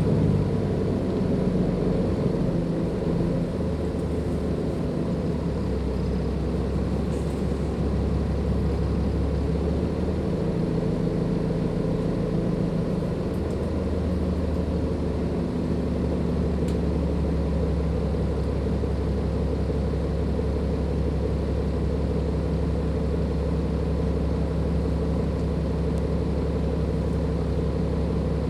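Cummins ISLe diesel engine of a Dennis Enviro 500 double-decker bus running, heard from on board. It is a continuous low hum that shifts pitch a few times in the first half, then holds a steady note.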